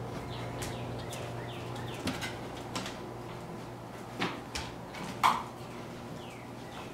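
Small birds chirping, a string of short falling chirps repeating every fraction of a second over a low steady hum. A few sharp knocks break in about two and four seconds in, and the loudest comes a little after five seconds.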